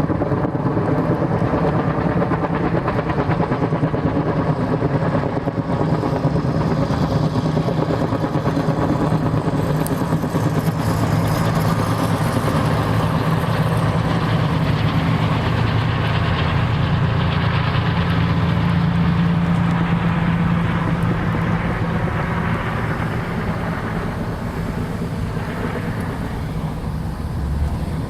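A steady engine drone with a constant low hum under a rushing noise, easing off slightly near the end.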